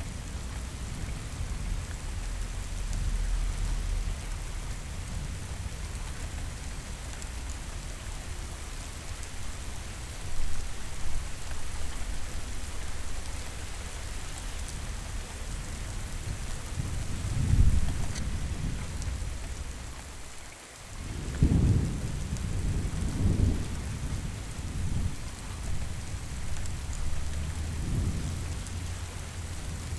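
Steady rain falling with rolling thunder. Low rumbles swell past the halfway point, and after a brief lull a louder rumble of thunder comes, followed by a few more rolls near the end.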